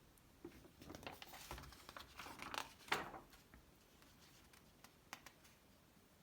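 Faint rustling of magazine paper as pages are handled and turned, sharpest about three seconds in, followed by a couple of light clicks about five seconds in.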